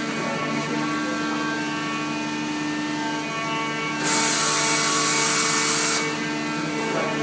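Peddinghaus CNC sawing and drilling line running with a steady machine hum, made of several steady tones. About four seconds in, a loud hiss starts and runs for about two seconds, then cuts off.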